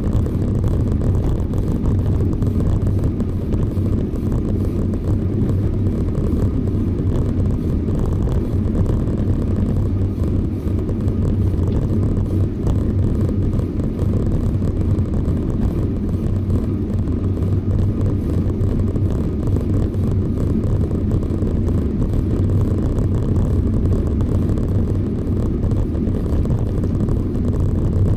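Steady low rumble of wind buffeting the microphone of a camera riding on a moving bicycle, mixed with road noise, even and unbroken throughout.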